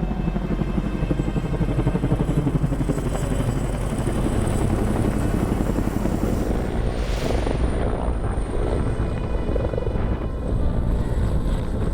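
Helicopter flying overhead, its rotor beating rapidly and steadily.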